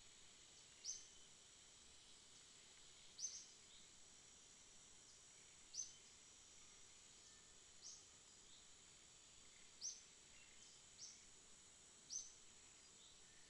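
Night ambience of calling insects: a steady, faint high-pitched hum, with a short, sharp high chirp repeating about every two seconds.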